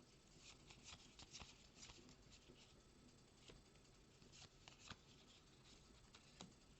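Faint, scattered flicks and rustles of Magic: The Gathering trading cards being slid and flipped through by hand.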